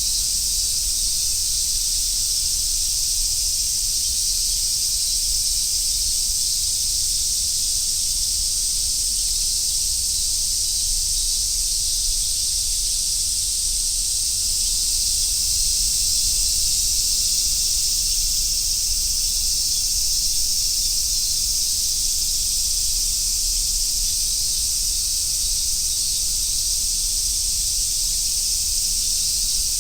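Cicadas, large brown cicadas among them, calling in a dense chorus: a steady, high sizzling buzz.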